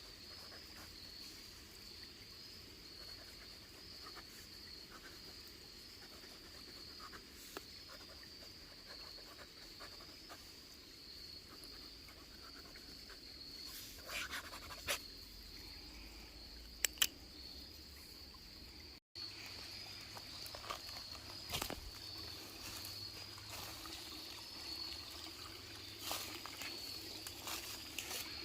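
Steady high-pitched chorus of insects buzzing in the woods, with scattered sharp clicks and taps over it and a brief dropout about two-thirds of the way through.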